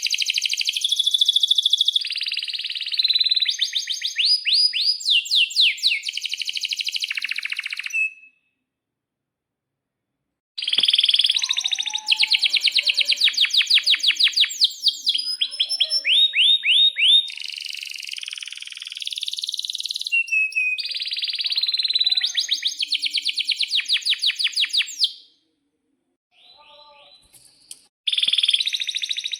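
Male domestic canary singing long song phrases of fast rolling trills and held whistled notes. The song breaks off about 8 seconds in for two seconds of dead silence, then resumes, with another short pause near the end.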